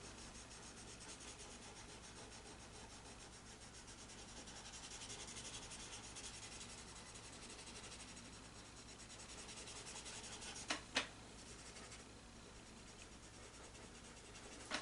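Faint, steady rubbing on paper as colored pencil is blended into a drawing, with two small sharp taps about eleven seconds in.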